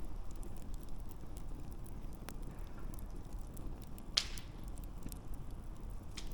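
Wood fire burning with a low steady rumble and scattered crackles and pops, the loudest a sharp snap about four seconds in.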